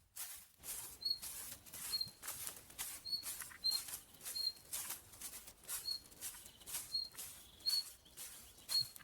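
A small bird repeating a short, high chirp about once a second, over quick, repeated rustling or scratching sounds.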